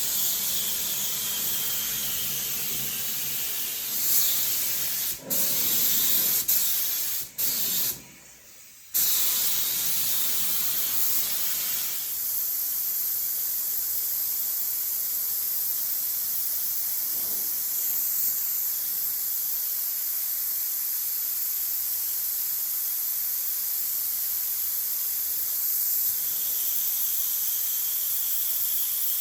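Air spray gun hissing steadily as primer is sprayed onto a truck bed, with a few short breaks in the first half where the trigger is let off. A low steady hum runs underneath and stops about twelve seconds in.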